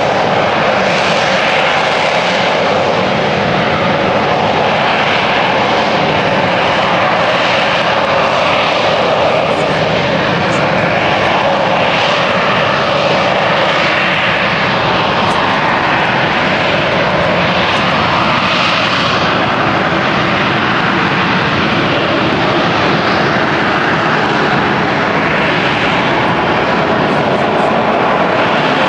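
A fixed-wing aircraft's engines running loud and steady at an airshow, with a slowly swirling, wavering quality to the noise as the plane moves.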